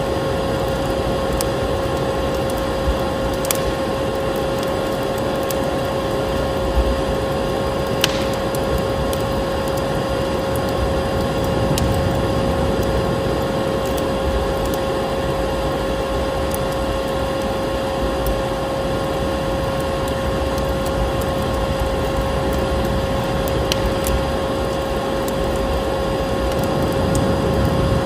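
Vacuum cleaner running steadily with a constant whine, layered with a crackling wood fire that gives occasional sharp pops and snaps.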